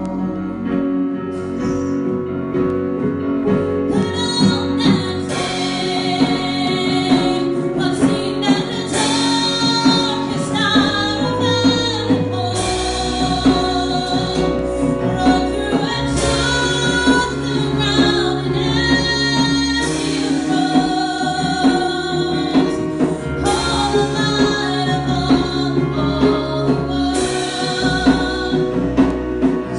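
Worship music: singing, mostly a woman's voice, over instrumental accompaniment, continuing steadily.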